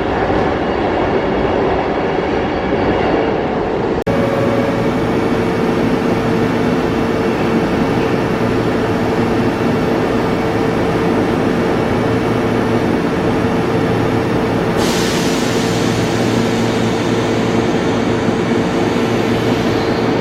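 A Keihan electric train in the station, with steady running noise. After an abrupt change about four seconds in, a steady hum holds, and a high hiss joins about fifteen seconds in.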